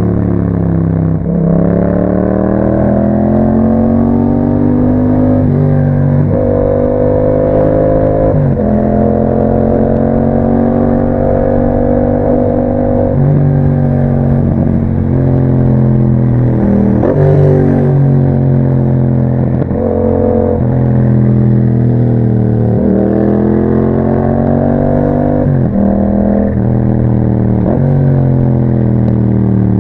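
2021 Yamaha MT-07's 689 cc parallel-twin engine, through an Akrapovič exhaust, pulling under load on the road. Its pitch climbs, then drops sharply, about eight or nine times as the rider runs up through the gears and rolls the throttle on and off.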